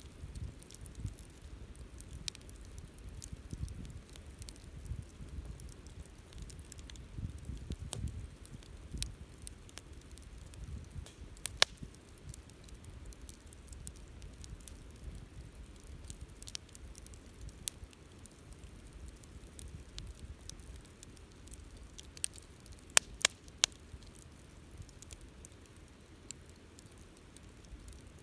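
Campfire burning with a steady low rumble of flame and scattered crackles. There are a few sharp pops: one loud one about a third of the way through, and three in quick succession a little over three-quarters of the way in.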